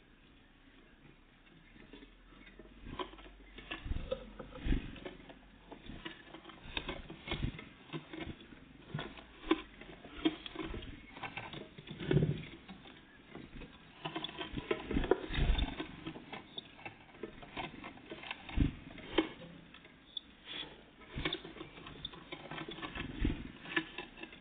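Irregular tapping, scrabbling and knocking of small birds (great tits and blue tits) pecking and landing at a feeder, with a few louder knocks.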